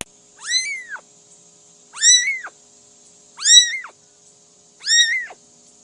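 A cat meowing four times, evenly about a second and a half apart; each meow is short and high, rising then falling in pitch.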